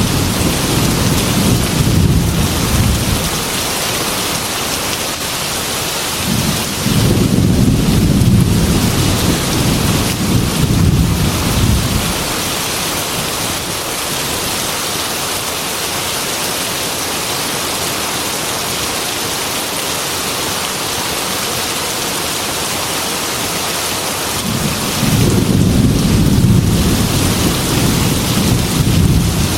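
Heavy rain beating steadily on a glass window, with low rolling thunder rumbling three times: a rumble dying away in the first few seconds, another lasting several seconds from about seven seconds in, and a third near the end.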